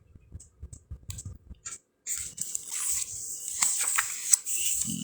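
Pages of a card deck's paper guidebook being leafed through by hand: scattered soft clicks at first, then about two seconds in a steadier papery rustle with small ticks as the pages turn.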